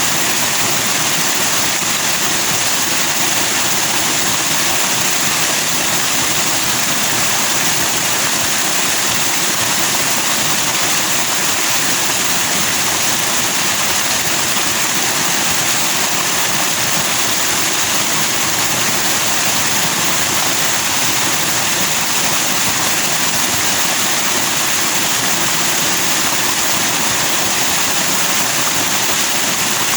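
Forest stream rushing over rocks in white foam, a steady, unbroken rush of water.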